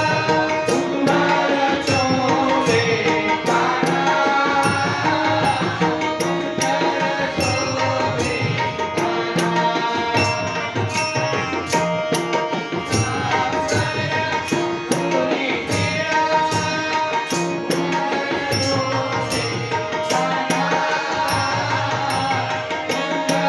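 A gaulan, a Marathi devotional song about Krishna, sung to hand-drum accompaniment, with a steady beat of sharp metallic clicks.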